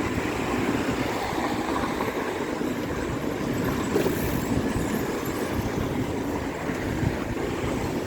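Steady wind and road rumble on the microphone while riding a bicycle.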